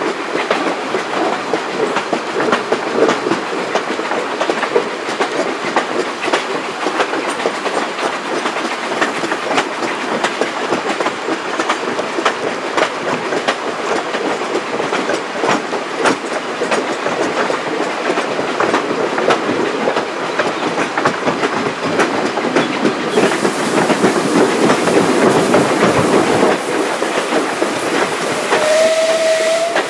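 Vintage railway coach running at speed behind a steam locomotive: a steady rumble of wheels on the rails with a clickety-clack of knocks over the rail joints. Near the end the locomotive's whistle sounds one steady note for about a second and a half.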